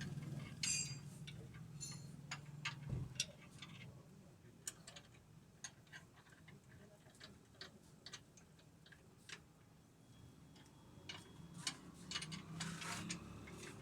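Irregular light clicks and taps of hand tools and metal parts being handled, coming thicker near the end. A low steady hum runs under the first three seconds and then stops.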